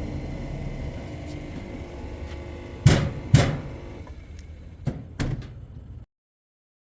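Sharp knocks in two pairs, about three and five seconds in, from fitting the washing machine's panel back on, over a steady low hum; the sound cuts off suddenly near the end.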